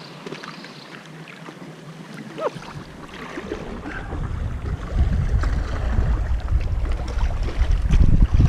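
Wind buffeting an action camera's microphone over the wash of sea water around a kayak. The low rumble sets in about two and a half seconds in and grows louder towards the end.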